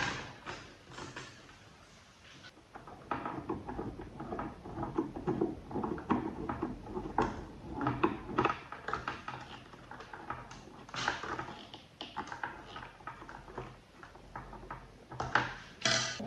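Irregular light clicks, taps and rustles of hand work on small parts, starting about three seconds in, with a couple of sharper clicks near the end.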